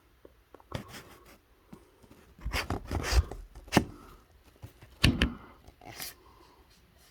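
A string of knocks, clunks and rustles from something being handled, loudest in a cluster around the middle and again about five seconds in.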